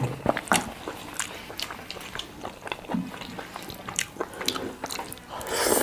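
Close-up eating sounds: biting and chewing food, with frequent wet mouth clicks and smacks, and a brief hiss near the end.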